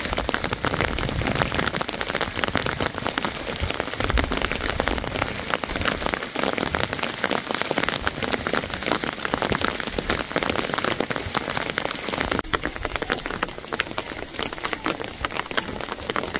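Steady rain falling on the ground and roofs: a dense, even patter of countless small drops, dropping slightly in level about twelve seconds in.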